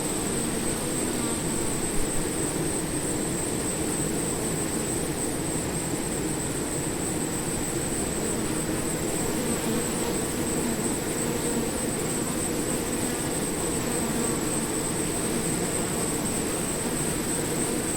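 A swarm of bees buzzing: a dense, steady drone that holds level throughout, with a thin steady high tone above it.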